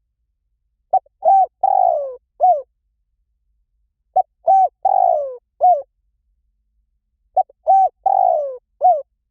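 Spotted dove cooing: three identical phrases about three seconds apart. Each is a short clipped note and then three fuller coos, the middle one longest and sliding down in pitch. This is the call style Thai dove keepers call 'liw tan'.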